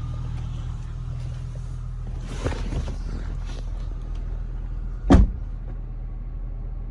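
2003 Honda Accord's 3.0-litre V6 idling steadily with a low hum, with a few light clicks partway through and one loud thump about five seconds in.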